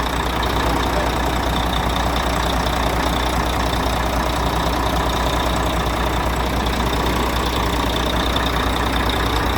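Volvo FH13 truck's inline-six diesel engine idling steadily after a gear repair, with the knock it was repaired for no longer heard.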